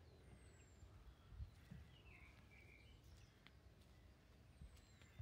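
Near silence with faint birdsong: a thin high whistle falling in pitch near the start and again near the end, and a few soft chirps in between, over a low outdoor rumble with a couple of soft thumps.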